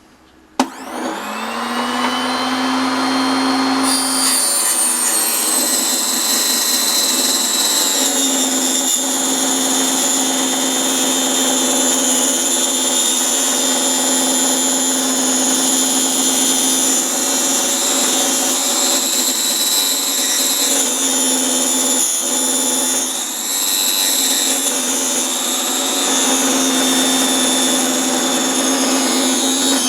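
Miniature table saw (Proxxon KS 230) switched on about half a second in, its motor winding up to speed, then ripping slowly through 11 mm pine. The blade runs steadily with small dips in pitch as the stock is fed, working at the limit of the little saw, with the cut just getting through and starting to burn.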